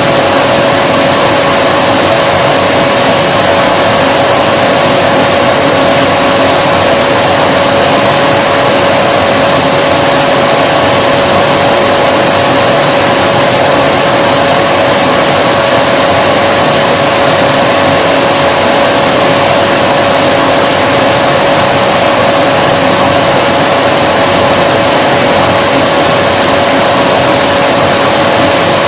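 Vacuum cleaner running steadily, a loud even rush of air with a constant motor whine.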